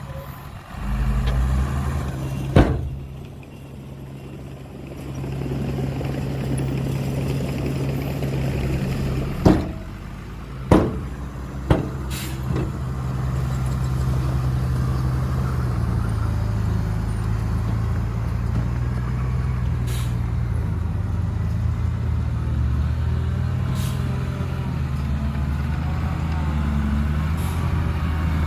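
Heavy earthmoving machine engine running steadily under load, with a sharp bang early on and three more sharp bangs in quick succession around the middle.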